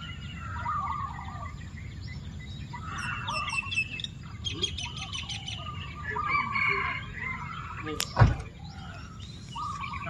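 Several birds calling: short chirps and quick falling whistles, a rapid run of very high chirps about three seconds in and a fast trill a little later, over a steady low rumble. A single sharp knock about eight seconds in is the loudest sound.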